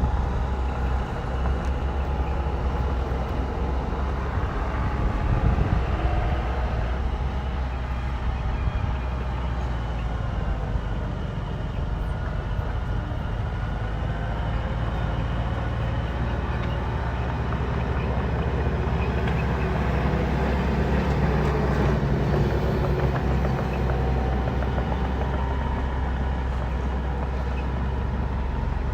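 Bulldozer's diesel engine running continuously under load, its pitch rising and falling now and then, with a steady clatter of work over it.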